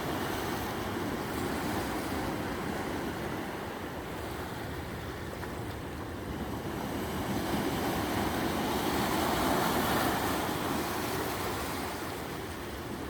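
Sea waves breaking on the shore: a continuous surf wash that eases and then swells, loudest about eight to ten seconds in.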